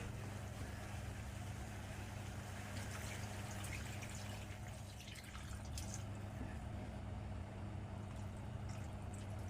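Pot of pork humba cooking on the stove, giving faint, steady liquid sounds of simmering, with a low steady hum underneath and a few faint ticks.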